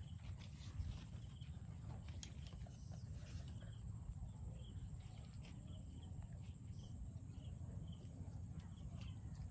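Outdoor ambience: a steady low rumble with faint short high calls repeating about once a second, and a few light clicks.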